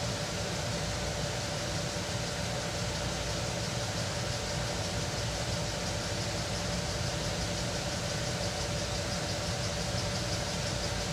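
A vehicle engine idling steadily, with a constant hum and no change in pitch.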